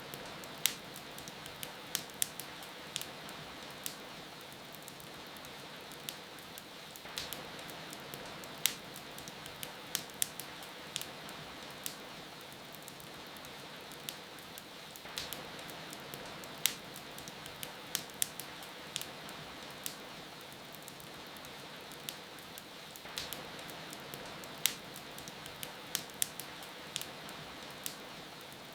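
Steady rain hiss with the irregular sharp crackles and pops of a wood fire burning in a fireplace.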